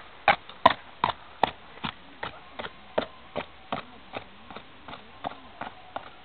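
Hoofbeats of a Mangalarga mare moving at her gait, an even beat of about two and a half strikes a second that grows steadily fainter as she goes away.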